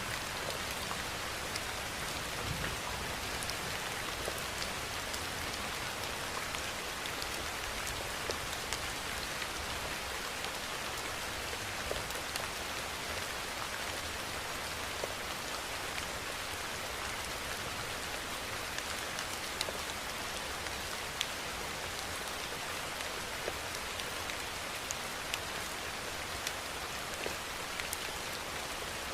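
Steady, even rainfall, with scattered sharp ticks of individual drops striking a surface.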